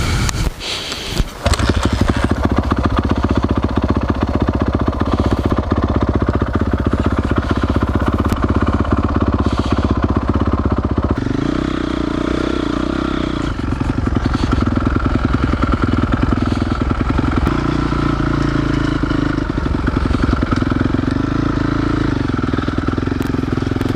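Single-cylinder four-stroke trail motorcycle engine running steadily, starting about a second and a half in after a short cut, with a change in engine note about halfway through.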